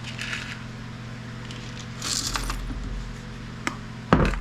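Small metal scrap parts clinking and rattling as they are handled and dropped, with a louder metallic clatter near the end, over a steady low hum.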